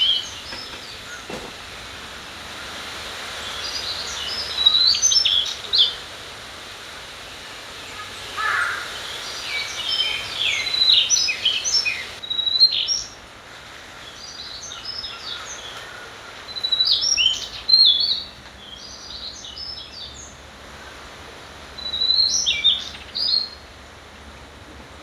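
Songbirds singing in short, repeated bursts of chirping phrases, several times, over the steady hiss of a trickling valley stream.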